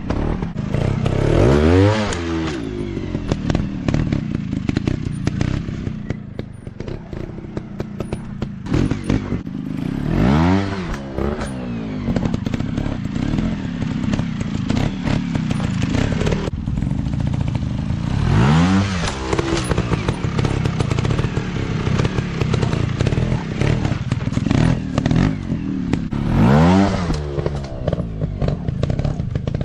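Dirt bike engine running with four hard revs, about eight seconds apart, each rising quickly in pitch and dropping back.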